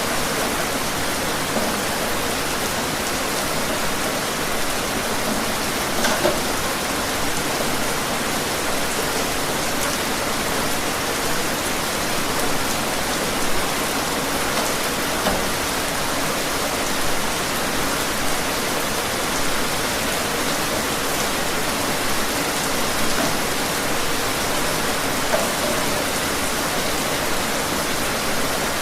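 Steady rain falling, with now and then a louder single drop standing out.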